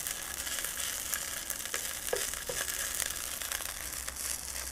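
Millet-and-seaweed burgers sizzling in oil in a stainless steel frying pan while a wooden spatula scrapes under them to turn them over. There are a couple of light knocks of the spatula on the pan about two seconds in.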